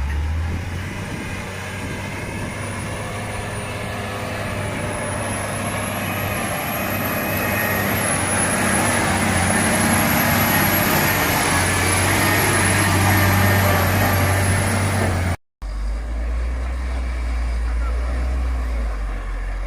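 Heavily loaded truck's engine pulling hard, growing steadily louder with a high whine over the drone. It cuts off suddenly about fifteen seconds in and comes back as a lower, steadier drone.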